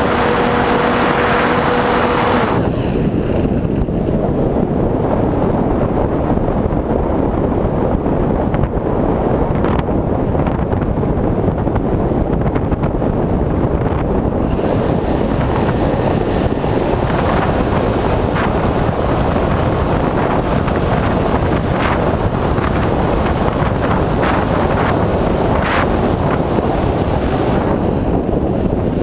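Loud, steady rush of air over the microphone of a camera riding on a flying RC plane. A steady low hum sounds for the first two seconds or so, then stops, leaving only the wind rush.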